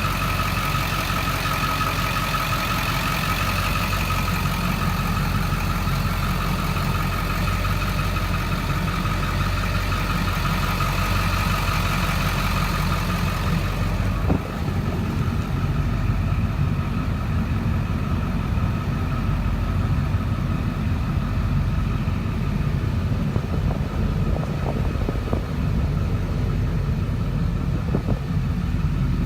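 A 2002 Ford F-350's 7.3-litre turbo-diesel V8 running steadily. A steady high whine sits over it for the first half and drops away about halfway through.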